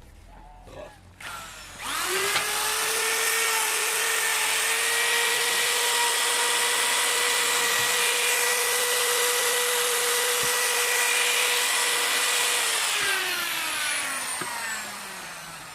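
Handheld electric power tool spinning up about two seconds in and running at a steady whine for about eleven seconds, then coasting down with a falling pitch near the end.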